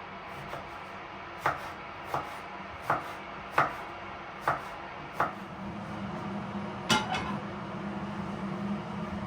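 Kitchen knife chopping on a cutting board: six slow, even strokes. A sharper double click follows, and a steady low hum starts near the end.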